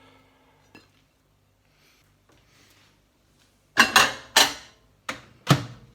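Crockery clattering: a plate knocked and set down in five sharp clinks and knocks in quick succession, after a few quiet seconds.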